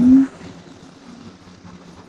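A short rising 'hm' from a man's voice, then a low, steady vehicle hum under street noise.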